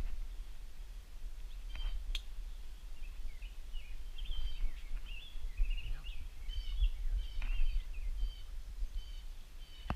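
Small birds chirping in many short, quick calls, thickest in the second half, over a steady low rumble. A few faint sharp clicks come through.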